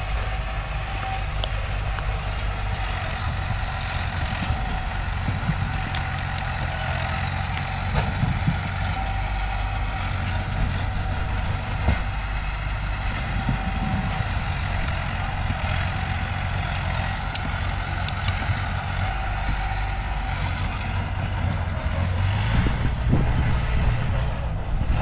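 Diesel engines of a mini bulldozer and a dump truck running steadily, with a few sharp clicks or clanks. The engine sound grows slightly louder near the end.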